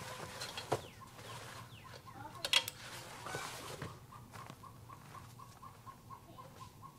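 Faint bird calling in a steady series of short, even notes, about three a second, with a few sharp clicks, the loudest about two and a half seconds in.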